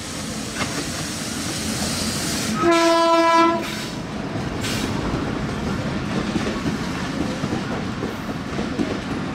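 Bangladesh Railway diesel locomotive passing close by with its passenger coaches rolling behind it. Its horn sounds once for about a second, a little under three seconds in, over the steady engine and wheel rumble.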